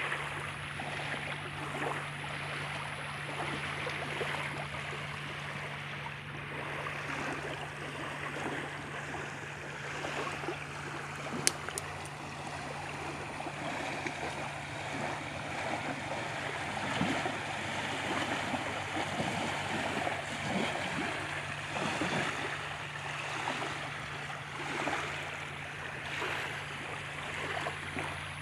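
River water flowing and lapping in a continuous, uneven wash, with a steady low hum underneath. A single sharp click a little before the middle is the loudest moment.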